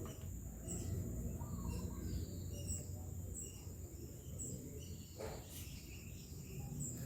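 Background ambience: a steady insect drone and short high chirps repeating every half second or so over a low hum, with a brief rustle about five seconds in.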